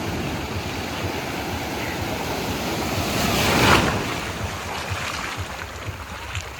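Ocean surf on a beach: waves washing in, one swelling to a peak a little past halfway and then falling away, with wind buffeting the microphone.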